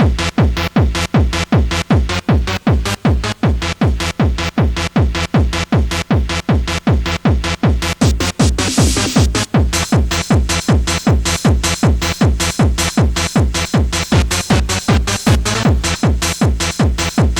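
Fast hardcore techno with a pounding kick drum on every beat, about two and a half beats a second. There is a short burst of rushing white noise about nine seconds in.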